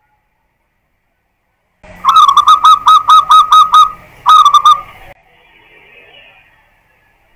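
Zebra dove (perkutut) cooing: a rapid run of short, clipped notes starting about two seconds in, about four or five a second, then after a brief gap a second shorter phrase. Very loud.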